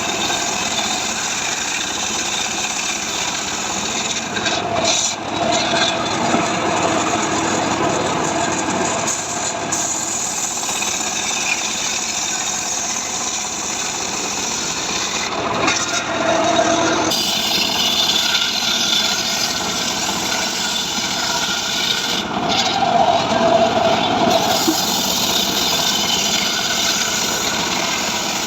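Engine-driven saw running steadily under load, cutting through dry mahogany.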